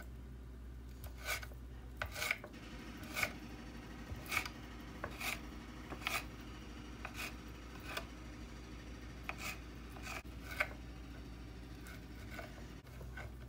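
A series of short scraping or cutting strokes, about one a second and unevenly spaced, over a steady low hum.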